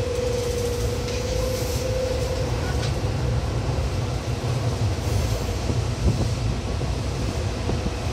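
Seibu 2000 series electric train running, heard from on board: a steady low rumble of wheels on the rails, with a steady whine that fades out about two seconds in.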